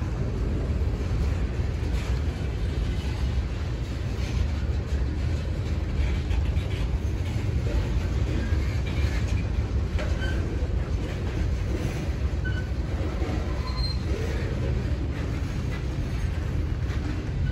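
Freight train rolling past: a steady rumble of covered hoppers and tank cars on the rails. A few brief, high wheel squeals come through in the middle and near the end.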